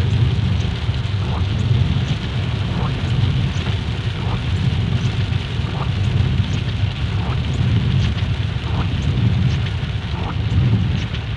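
Heavy rain falling steadily, a constant hiss over a low rumble, with scattered single drops ticking through it.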